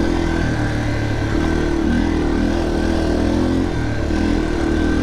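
Yamaha TT-R230 dirt bike's single-cylinder four-stroke engine running under throttle, its revs rising and falling repeatedly.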